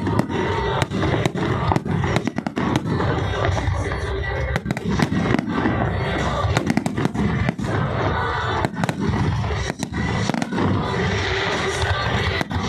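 Fireworks display: a dense, irregular run of bangs and crackling bursts, overlapping one another with no pause.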